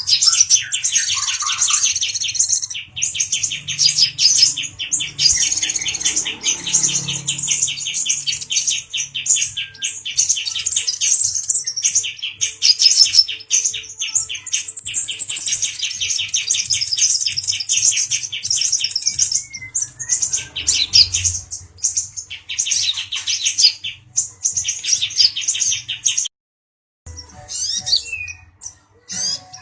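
Male kolibri ninja sunbird (konin dada coklat) singing excitedly: long runs of very rapid, high twittering trills broken by short pauses.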